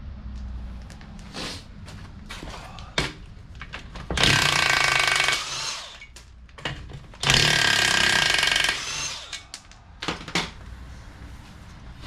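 Power impact wrench run in two bursts of about a second and a half each, spinning bolts out of the rear differential, with clinks and knocks of tools and parts between the bursts.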